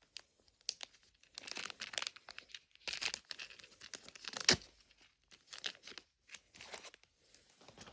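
Plastic wrapping being torn and crinkled in irregular bursts as a Mini Brands capsule ball is unwrapped, with one sharp click about four and a half seconds in.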